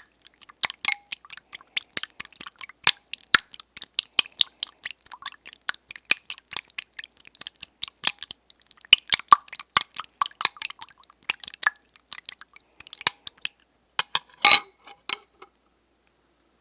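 Close-up ASMR trigger sounds: a dense, irregular run of crisp clicks and crackles, with one louder crunch near the end before they stop.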